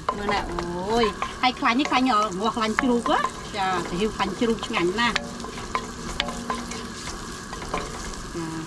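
Chopped shallots and garlic frying in hot oil in a non-stick wok, sizzling and crackling as a wooden spoon stirs them. Over roughly the first five seconds a wavering voice-like tone rises and falls above the frying.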